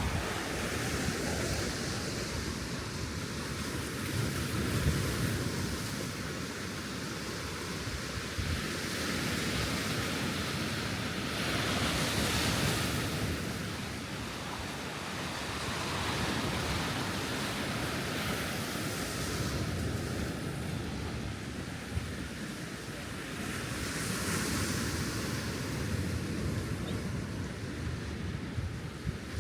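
Sea waves breaking and washing onto the shore, the surf swelling and falling back every few seconds, with wind buffeting the microphone.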